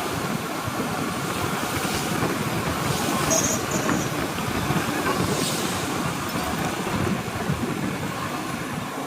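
Steady rush of wind and road noise with the engine of a motorcycle being ridden, heard from the rider's own camera. Two short high beeps come a little after three seconds in.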